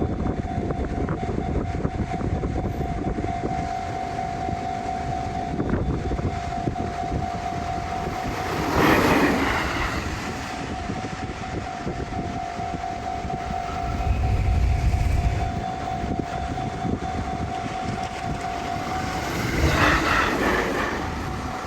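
Train at a level crossing: a continuous low rumble with a steady high tone, and two louder rushing swells about nine seconds and twenty seconds in.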